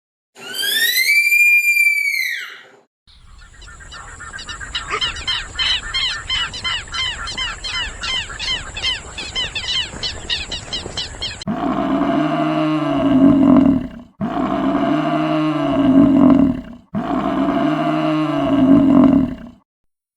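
A sequence of animal calls: first a single arched whistling call, then about eight seconds of rapid, repeated chirping calls over a steady high hiss, then three long, drawn-out calls, each rising and falling in pitch.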